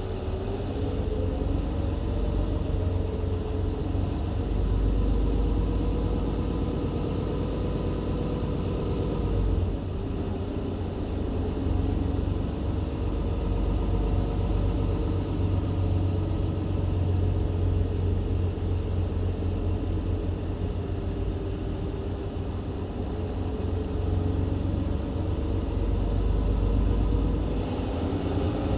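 Mercedes-Benz Citaro C2 LE hybrid bus's diesel engine and Voith automatic gearbox heard from on board while driving. An engine tone rises slowly for the first nine seconds or so, then drops away, and the bus runs on steadily.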